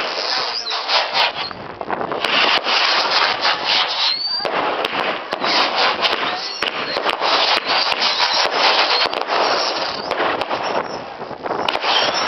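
Fireworks going off in a dense, continuous crackle and hiss, with a few short whistles.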